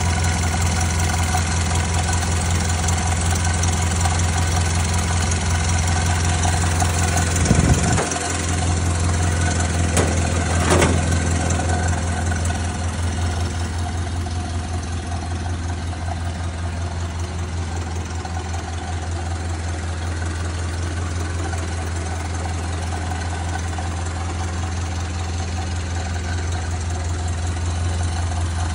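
Ford Model A's four-cylinder flathead engine idling steadily, with a couple of brief bumps about eight and eleven seconds in.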